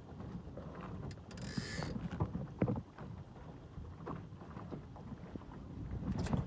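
Wind rumbling on the microphone aboard a small sailboat moving slowly in light air, with boat and water noise. A brief hiss comes about a second and a half in, and a few light knocks sound through it.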